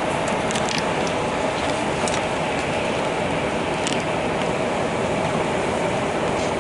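Steady rumble of a moving passenger train heard from inside the carriage, with a few brief sharp clicks and rattles.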